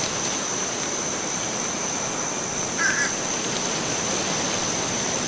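Stock woodland ambience: a steady, even rushing hiss with a thin, steady high tone above it and one short chirp about three seconds in.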